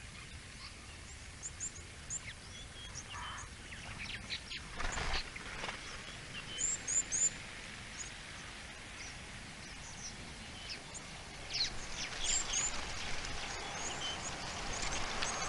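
Small wild birds chirping intermittently: short, high calls scattered every second or so over a steady outdoor background hiss. Near the end a rushing noise builds.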